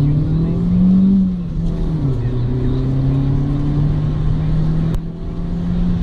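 Car engine heard from inside the cabin under way, its pitch rising for about a second and then dropping by about two seconds in, as with a gear change, then holding steady with a slight shift near the end.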